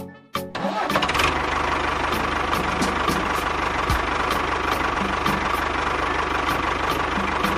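A tractor engine sound effect starts within the first second and runs steadily, with a light tick about three times a second, after a short bit of music ends.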